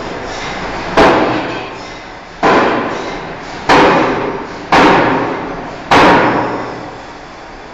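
Five heavy forging-hammer blows on a steel bar, a little over a second apart, each ringing out and fading.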